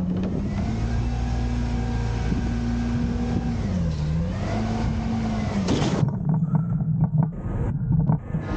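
Diesel engine of an Autocar garbage truck revving up and held at a raised speed, dipping briefly midway, then dropping back to idle about six seconds in, followed by several knocks and clanks.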